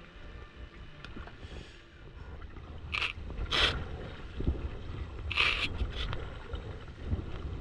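Kayak paddle strokes splashing in the water: a few short splashes over a low steady rumble.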